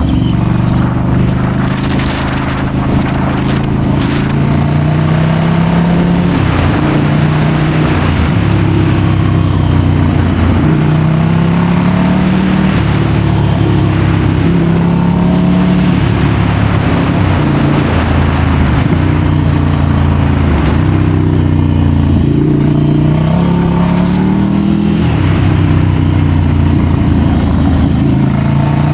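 Ducati Scrambler's air-cooled L-twin engine under way, its pitch climbing and then dropping again and again as it accelerates and shifts through the gears.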